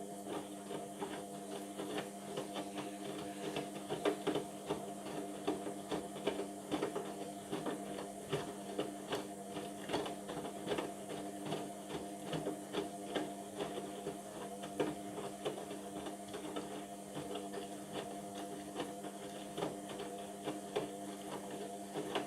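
Indesit washing machine's motor turning the drum during the wash phase: a steady hum of fixed pitch with irregular light knocks and clicks on top.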